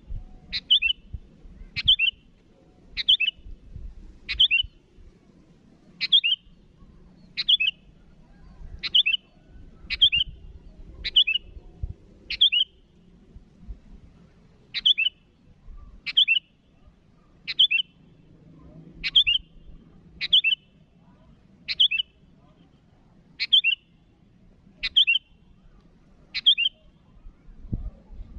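Sooty-headed bulbul (kutilang) giving short, sharp call notes about once a second, each sweeping down in pitch, with a pause of about two seconds near the middle. These are challenge calls aimed at a rival bird.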